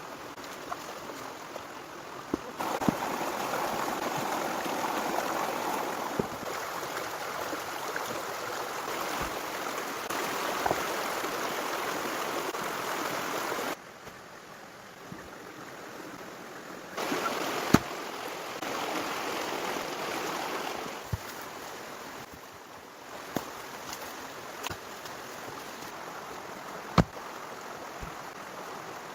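Steady rushing noise of running water that changes loudness abruptly several times, with scattered sharp knocks, the loudest two near 18 s and 27 s.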